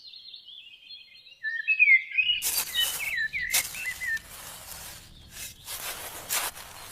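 Small birds chirping and twittering; about two seconds in, several louder bursts of rushing noise break in over them and continue in waves.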